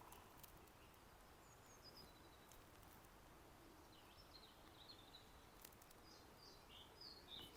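Male pied flycatcher singing faintly from a tree, a few short high phrases with gaps between them; the phrase near the end is the clearest.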